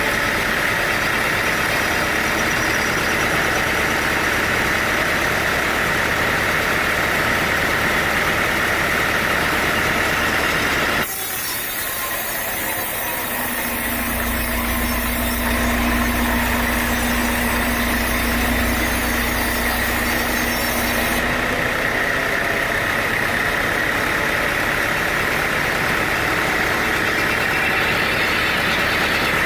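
Sawmill machinery running steadily with a continuous engine-like drone. About eleven seconds in, the sound changes abruptly: a steady hum and a low rumble run for several seconds, then the earlier steady noise returns.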